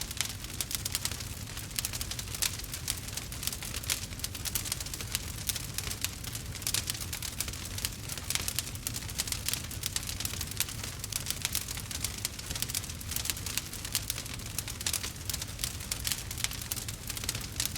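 Burning wood crackling and popping in a fire: a steady run of sharp, irregular snaps over a low rumble of flame.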